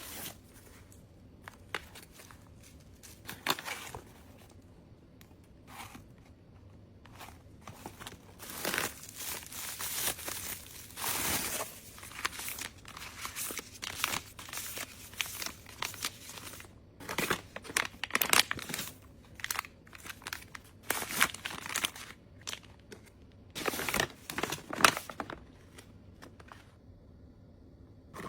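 Packaging being handled and unpacked, crinkling and rustling in irregular bursts with some tearing, louder now and then.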